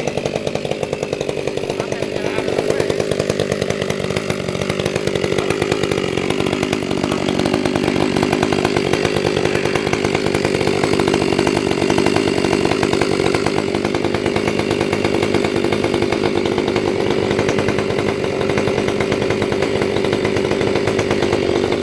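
Chainsaw running continuously as it cuts through the tree trunk, its engine pitch sagging slightly under load partway through and then holding steady.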